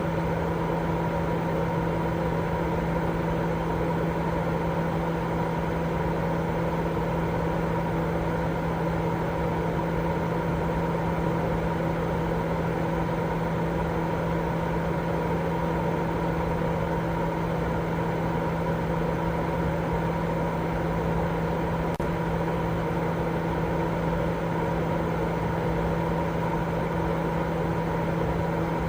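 Continuous baby sleep white noise: a steady, droning hum with a few held tones over a low, muffled hiss, unchanging throughout.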